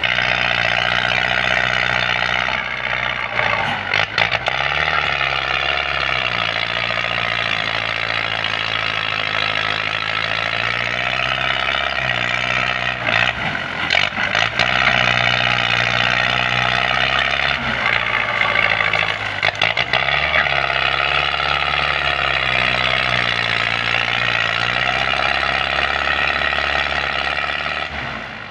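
Belarus tractor's diesel engine running under load, its speed rising and falling several times, with a few brief knocks.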